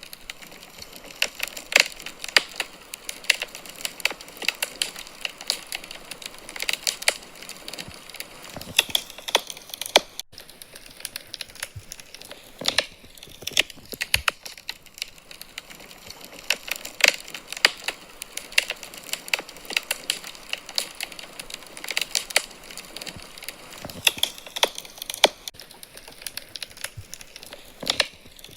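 Wood fire crackling in a fireplace: irregular sharp pops and snaps from the burning logs over a soft hiss.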